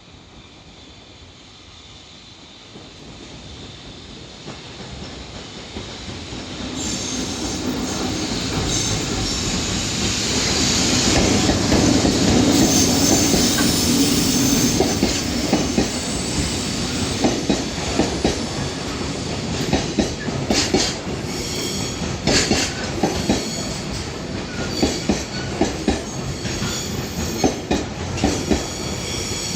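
A JR Freight container train approaches and passes close by. Its rumble builds to the loudest point about twelve seconds in, with a brief high-pitched sound at the peak. Then the container wagons' wheels clatter over rail joints in a steady clickety-clack.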